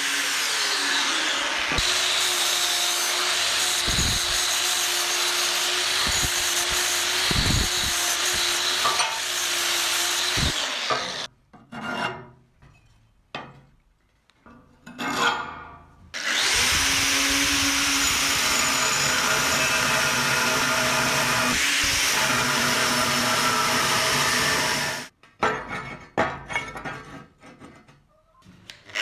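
Angle grinder cutting or grinding steel in two long runs, stopping about eleven seconds in and again near the end, with quieter handling noises in the gaps.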